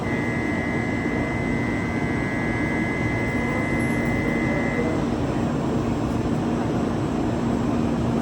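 Steady roar of a Shinkansen train at the platform. A steady high electronic tone sounds over it for about five seconds, then cuts off.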